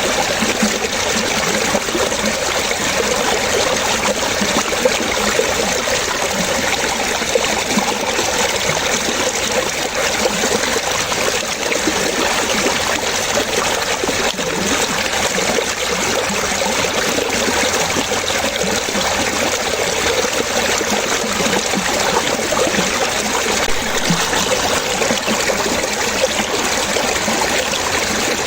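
Running water trickling and splashing steadily, with no pauses or changes.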